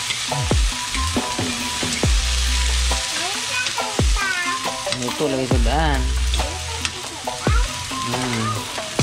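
Chopped string beans sizzling as they fry in a pan while a metal spoon stirs them. Underneath, a deep falling tone repeats every second or two.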